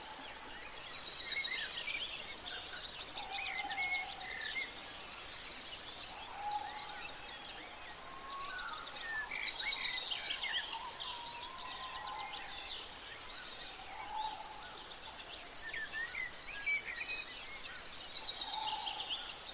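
Birds singing: bursts of quick, high chirping phrases that recur every few seconds, with a few lower calls between them, over a steady background hiss.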